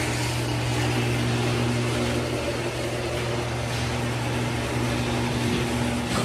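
Truck engine running steadily, a constant hum with no change in pitch.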